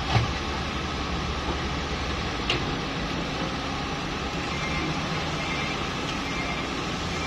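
Truck engine running under a steady rushing noise, with two sharp knocks: one just after the start and one about two and a half seconds in.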